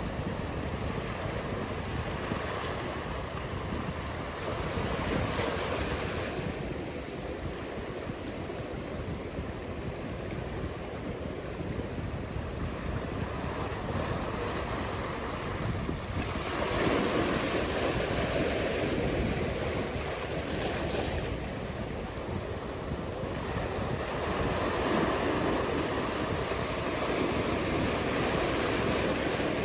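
Ocean surf: waves breaking and washing in a steady roar of noise that rises and falls in slow swells, loudest just past halfway and again near the end.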